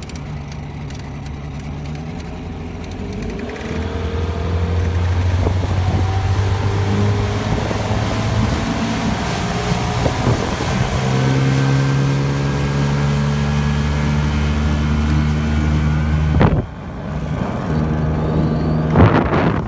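100 hp Johnson outboard motor opening up under throttle, its pitch rising as the boat accelerates onto plane, then running steadily at speed. The engine drops off suddenly about 16 seconds in and picks up again, with a few sharp thumps near the end.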